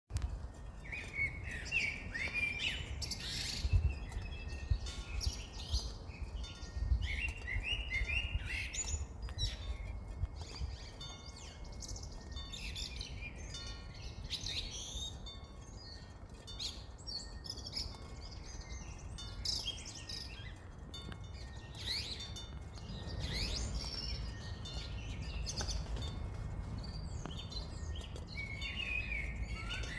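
Several songbirds singing and chirping, with overlapping short calls and trills throughout, over a low rumble.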